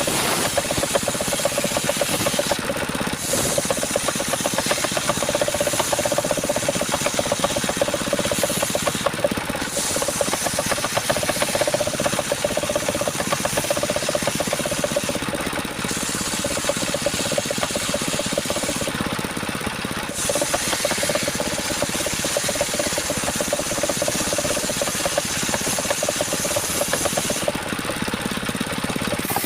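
Engine-driven circular saw running and cutting coconut wood, a steady, loud sawing noise whose hiss thins out briefly about five times, around 3, 9, 15, 19 and 28 seconds in.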